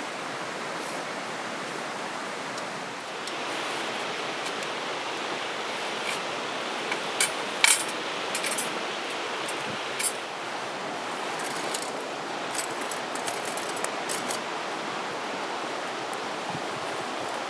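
Steady rushing of flowing river water, with a few short, sharp clicks and clinks, the loudest two together a little past halfway.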